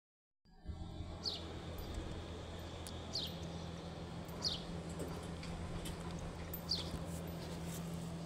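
A small bird repeating a short, high, falling chirp four times, about every one and a half to two seconds, over a steady low hum.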